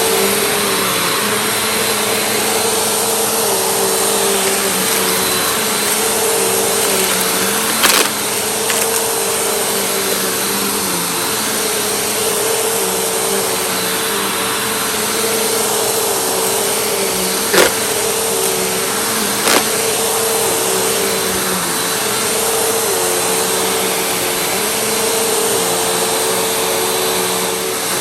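Vacuum cleaner running steadily, its motor note dipping briefly every few seconds. Three sharp knocks break through the hum.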